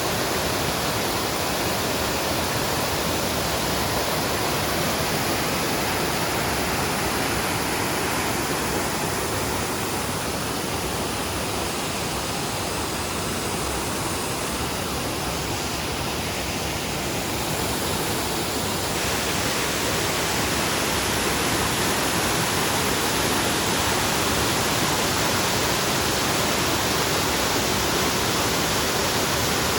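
Waterfall: a steady rush of falling water, growing slightly louder and brighter about two-thirds of the way through.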